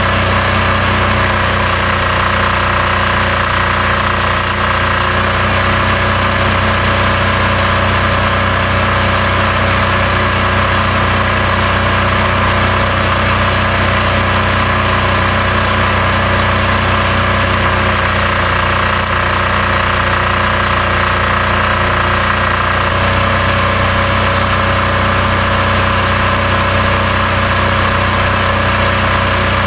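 Portable diesel generator running steadily, with a slight change in its note about 23 seconds in.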